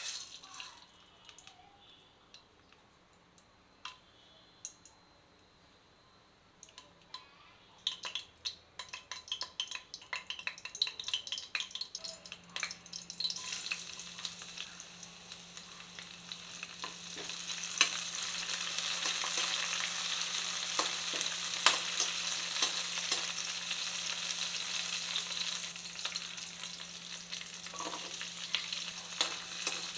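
Oil heating in a kadai: a few faint clicks at first, then about eight seconds in a run of sharp crackles and pops. About thirteen seconds in, crushed garlic goes into the hot oil and a steady sizzle starts, growing louder and carrying on to the end.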